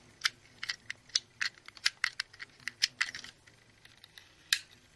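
Small sharp plastic clicks and taps from handling a model train set's controller: about a dozen irregular clicks over the first three seconds, then one more near the end.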